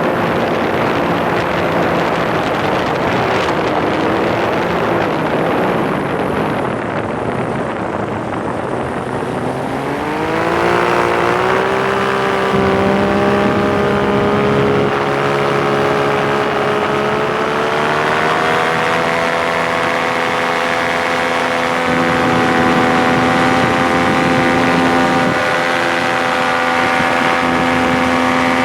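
Paramotor engine and propeller running, with a rushing noise over it at first; about a third of the way in the engine pitch climbs and then holds steady at the higher speed.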